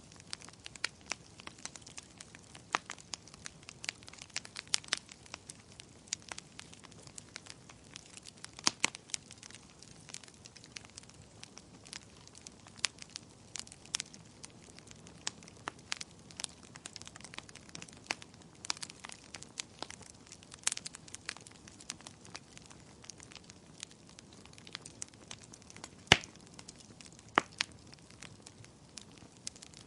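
Fireplace fire crackling: irregular sharp pops and snaps over a faint steady hiss, with a few louder snaps among them.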